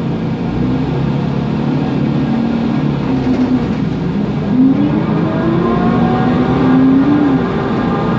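Mercedes-Benz OM 936 G CNG engine of a Conecto NGT city bus, heard from inside the bus. The engine runs steadily, then rises in pitch from about halfway as the bus accelerates. Near the end the pitch drops at a ZF Ecolife automatic gearbox upshift and starts climbing again.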